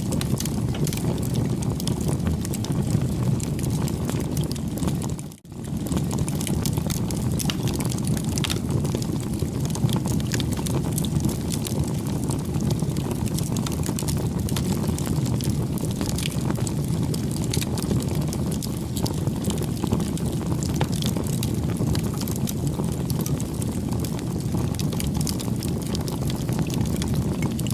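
Campfire burning: a steady low rush of flames with frequent small crackles and pops from the wood. The sound drops out briefly about five seconds in, then resumes.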